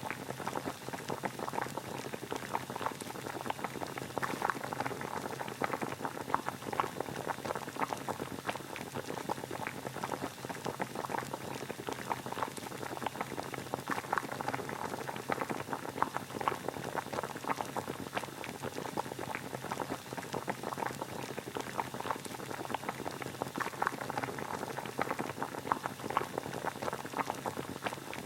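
Water boiling at a full rolling boil: steady, dense bubbling made of many small pops.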